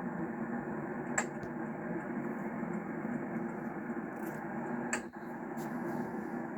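Steady in-cabin road and engine noise of a 1991 Chevrolet Caprice Classic on the move, with a sharp click about a second in and another about five seconds in.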